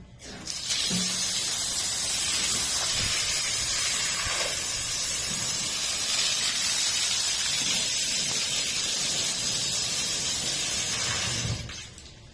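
Steady hiss of water sprayed under pressure onto a carpet. It starts about half a second in and cuts off near the end.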